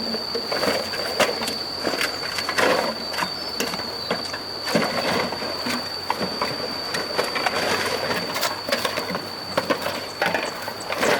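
Irregular clattering and knocking, as of hard objects being handled, over a steady high-pitched tone.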